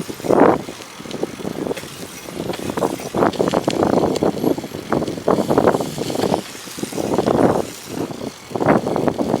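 Strong wind buffeting the microphone in irregular, uneven gusts while cycling on a snowy road.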